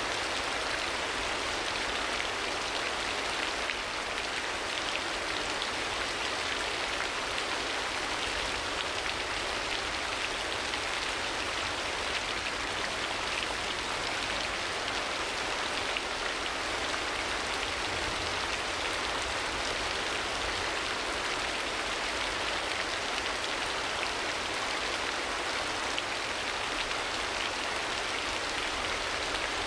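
Steady rain ambience: rain falling and pattering on surfaces.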